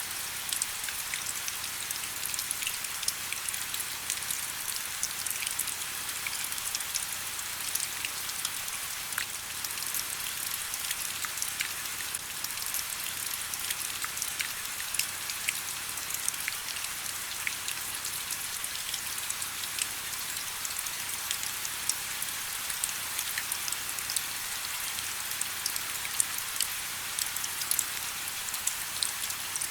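Steady rain falling: an even high hiss with many separate raindrop ticks scattered through it.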